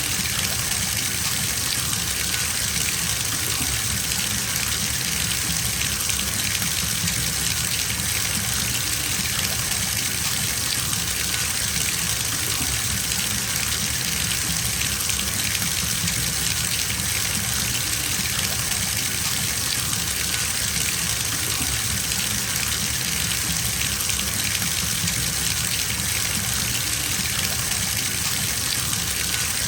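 Water running from a tap into a bathtub as it fills, a steady even rush with no change.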